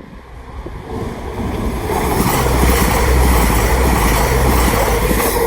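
Passenger train passing through the station at speed, its noise building over the first two seconds into a loud, steady rumble and rush.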